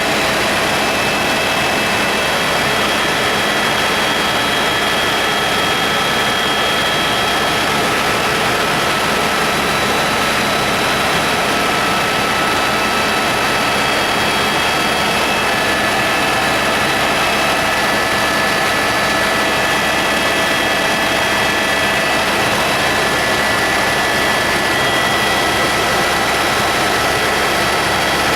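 Helicopter in flight: loud, steady engine and rotor noise, a dense rushing sound with several high whining tones held steady over it.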